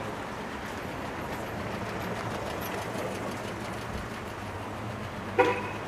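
Steady outdoor background noise with a low hum, and one short toot near the end.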